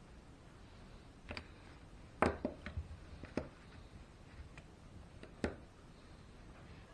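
Sharp clicks and light knocks of small RC truck parts being handled and fitted together during reassembly of a Traxxas E-Maxx rear drivetrain, with the loudest cluster a little over two seconds in and a last click about five and a half seconds in.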